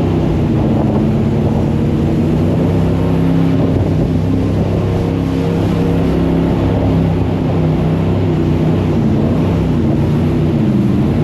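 Jet boat's engine running steadily, its pitch wavering slightly up and down.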